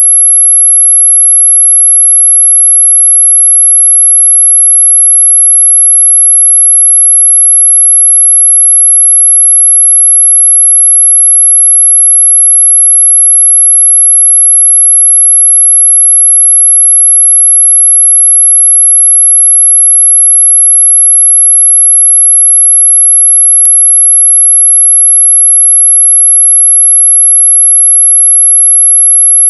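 A loud, very high-pitched steady electronic pure tone, played as a mosquito-repellent sound, holding unchanged throughout. There is a faint click about twenty-four seconds in.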